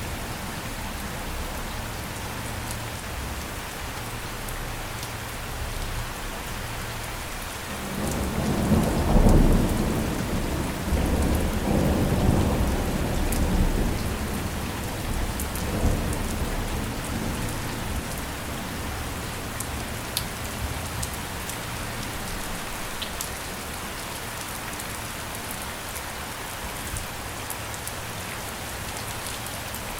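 Steady rain falling, with a rolling rumble of thunder that swells about a quarter of the way in, peaks twice, and dies away over several seconds.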